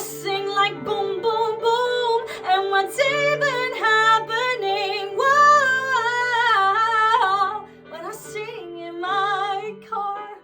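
A girl singing long, held notes with vibrato and runs, with no clear words, over sustained accompaniment chords; the singing fades out near the end.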